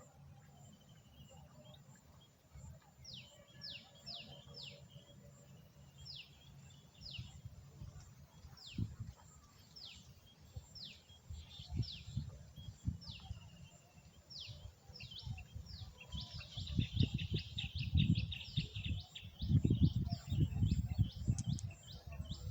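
A bird calling outdoors: short, high notes that fall in pitch, repeated every second or so, then a quick chattering run about two-thirds of the way through. Under it, low rumbling thumps of noise that grow louder toward the end.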